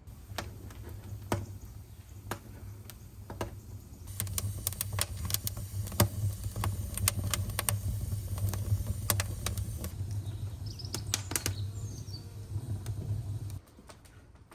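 Irregular sharp clicks and taps over a steady low rumble; the rumble grows louder about four seconds in and cuts off suddenly near the end.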